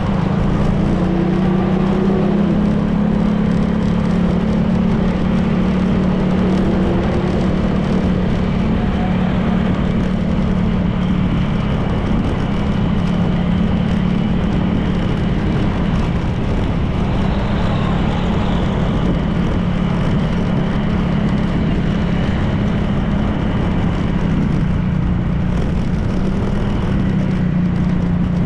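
A Honda PCX 160 scooter's single-cylinder engine running steadily at cruising speed, with wind and road noise.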